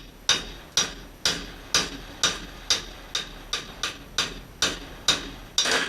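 Steady hammer blows on metal, about two a second and a dozen in all, each ringing briefly. This is the sound of driving an old bearing out of a two-stroke engine case.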